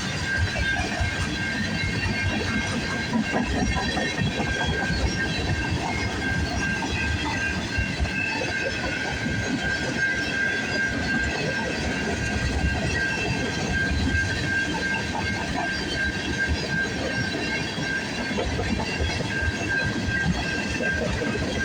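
Freight cars of a passing train rolling by, wheels clicking and rumbling over the rails, with a steady high-pitched tone over the rumble.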